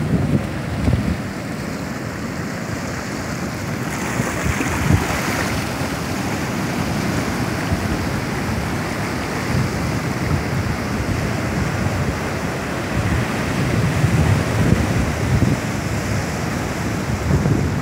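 Pacific surf breaking and washing up a sandy beach, with wind buffeting the microphone. One wave breaks more loudly about four to five seconds in.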